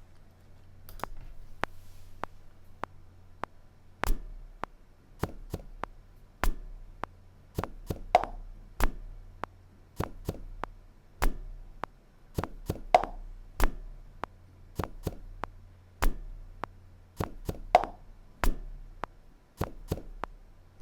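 Short percussive hits from sampled found sounds, played as a simple rhythm over a metronome click at 120 beats per minute. A few hits ring briefly with a tone; a faint low hum runs underneath.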